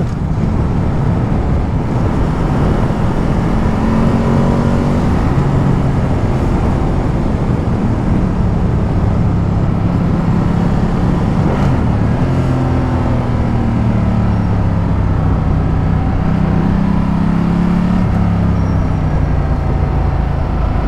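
Ducati Multistrada 1200's V-twin engine running under way, its revs rising and falling several times, over a steady rush of wind and road noise.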